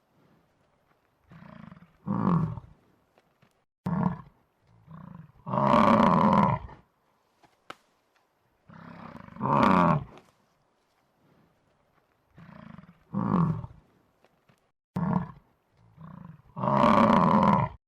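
A large animal roaring repeatedly: about six loud roars a few seconds apart, several led in by a softer call, with silence between.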